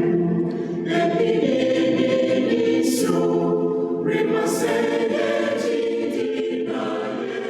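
A church choir singing a hymn a cappella in several-part harmony, with held notes and short breaks between phrases. It grows quieter near the end.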